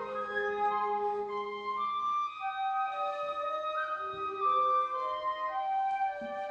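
A trio of piccolo, flute and alto flute plays long, overlapping held notes. The alto flute sustains a low note under the upper voices for the first two seconds.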